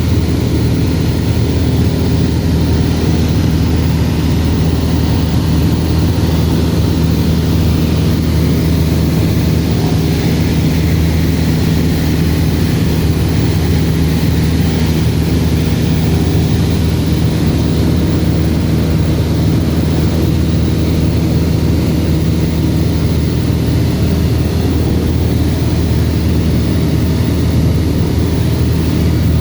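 Cessna 172RG's four-cylinder Lycoming piston engine and propeller running steadily, a constant low drone that holds one pitch throughout.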